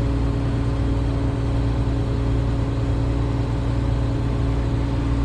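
Combine engine running steadily, an even hum that stays at the same pitch.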